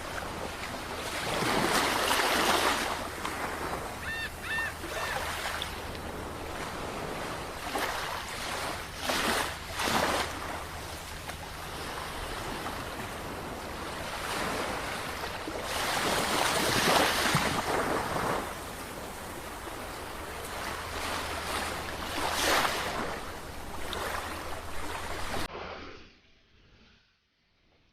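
Sea waves breaking and washing on a shore, the surf swelling and ebbing every few seconds, with a brief high three-note call about four seconds in. Near the end the sound drops away abruptly to near silence.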